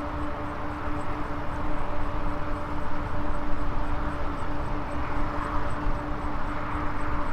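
Maxtron Mule folding e-bike riding along: a steady electric motor whine over wind and tyre rush, with no change in speed or load.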